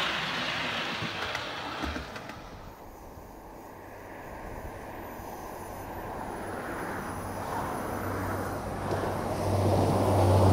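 A diesel multiple-unit passenger train approaching and passing close below, its engine hum and running noise growing steadily louder toward the end.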